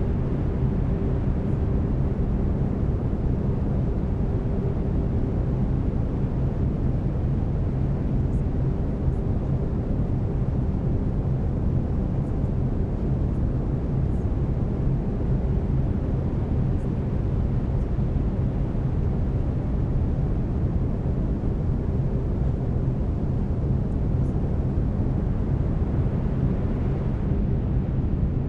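Steady brown noise, a constant low hiss strongest in the bass, with faint steady low tones of binaural beats beneath it.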